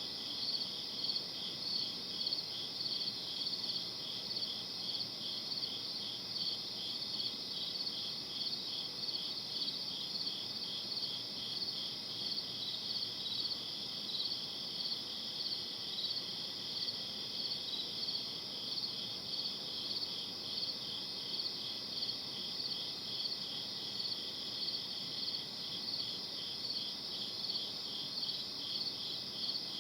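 Night chorus of crickets chirping in a steady, evenly pulsing rhythm, over a faint even hiss of background ambience.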